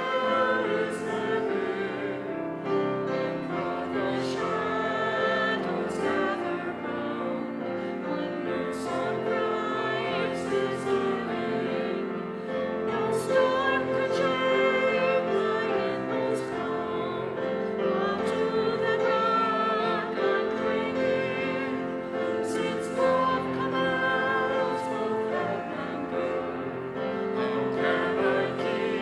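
Church congregation singing a hymn together, many voices in unison, with the steady sung lines of a slow verse.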